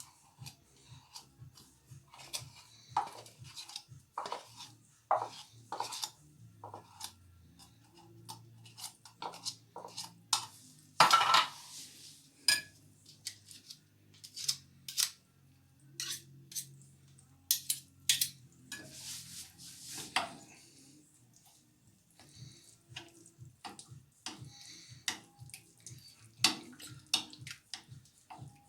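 Dishes and cutlery clinking and knocking, a scatter of separate clinks throughout, with a longer scraping or rustling noise about eleven seconds in.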